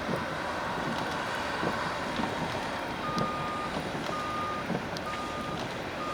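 A vehicle's reversing alarm beeping four times, about one beep a second, starting about halfway through, over a steady rushing noise.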